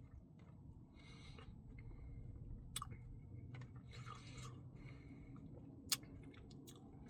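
Faint, close-miked chewing and wet mouth sounds of someone eating a cookie dough Blizzard ice cream, with a few sharp lip-smack clicks.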